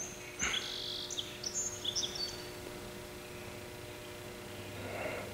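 Small birds chirping, a handful of short high calls in the first two seconds or so, over a steady low hum.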